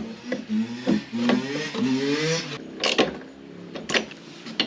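Workshop tool sounds as a dirt bike is bolted back together: a small motor whirring that rises in pitch in short runs, and several sharp metallic clicks.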